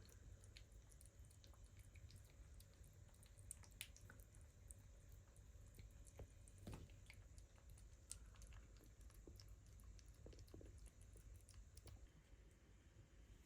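Kitten purring close to the microphone, a continuous low rumble, with faint scattered clicks and ticks over it.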